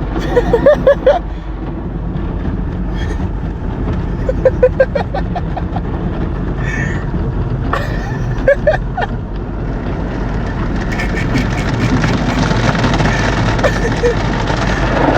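Automatic car wash heard from inside the car: a steady rumble of machinery and water spray that swells and grows hissier from about ten seconds in as the brushes and jets reach the car. A dog whines in short high bursts several times.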